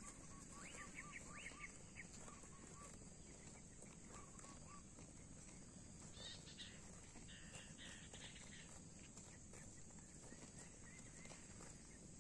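Faint outdoor quiet with a bird calling in runs of short repeated notes, at the start and again about four seconds in, over a steady high hiss.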